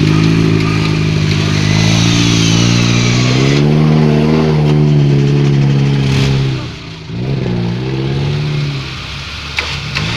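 Off-road vehicle engine revving hard under load, its pitch rising and falling. It drops back about seven seconds in, then picks up again. A loud hiss runs alongside it for the first three and a half seconds, then stops abruptly.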